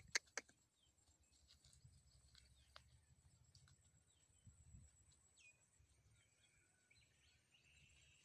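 Near silence: faint outdoor ambience with a few scattered faint bird chirps and two sharp clicks right at the start.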